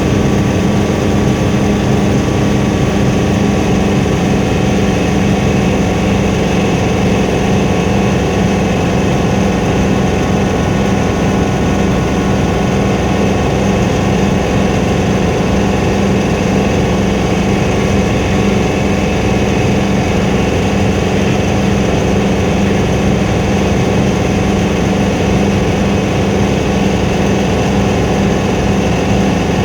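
Helicopter engine and rotor running steadily in flight: a constant, loud drone with a strong low hum that does not change.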